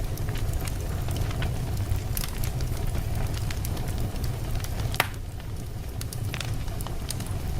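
Wood fire burning in a fireplace: a steady low rumble of flames with scattered sharp crackles and pops from the burning logs, one louder pop about five seconds in.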